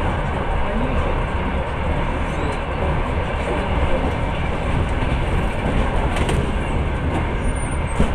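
Passenger train running along the track, heard from inside the carriage: a steady rumble of wheels on rails, with a couple of sharp clicks near the end.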